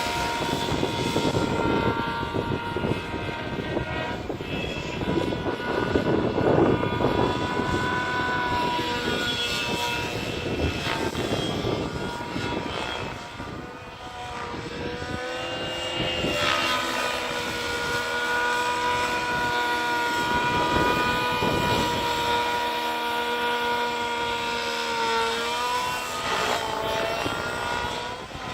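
SAB Heli Division Black Nitro RC helicopter in flight, its nitro engine and rotors giving a high, steady whine that shifts in pitch as it manoeuvres. The pitch dips and recovers about 25 seconds in, and the level sags briefly at about 14 seconds.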